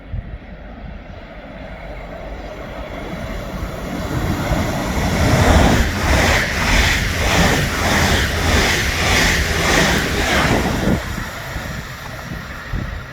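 Train passing by on the line: the rumble builds, then a loud stretch of wheels beating over the rails at about two strokes a second, fading off sharply near the end.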